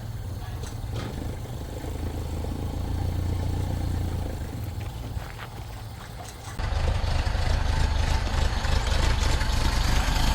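Ford Lightning pickup's supercharged V8 running on the move, a steady low drone with road noise. About two-thirds of the way through, the sound jumps abruptly louder and rougher.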